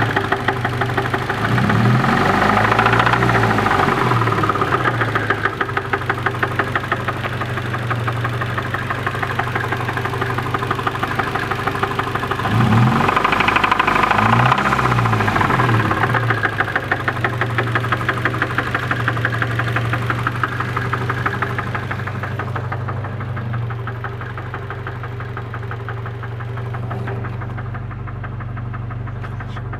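Nissan KA24DE 2.4-litre inline-four running with a fast, regular knock, revved up and back down twice, near the start and about halfway through, then idling. The owner takes the knock for rod knock from a bad bearing.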